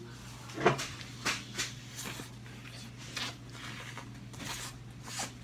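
Close-up eating sounds: short wet bites, chews and mouth smacks at irregular intervals, the loudest under a second in, as a man eats a pizza hot dog. A steady low hum runs underneath.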